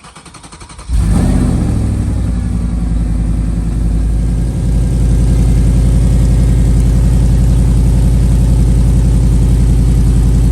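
B7 Audi RS 4's 4.2-litre V8 starting: the starter cranks for under a second, then the engine catches suddenly and idles steadily. It is heard through catless downpipes with the stock cat-back exhaust.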